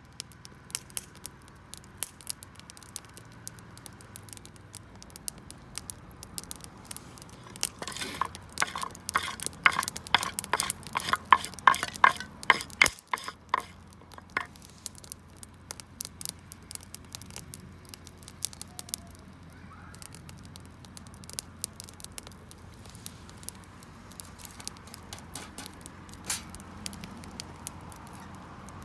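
Wood fire crackling with scattered sharp pops, and a denser, louder flurry of crackling and sizzling in the middle.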